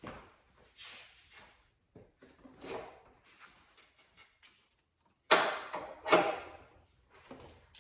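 Irregular knocks and scrapes of parts being handled and worked into place by hand, with two loud clunks a little after five and six seconds in.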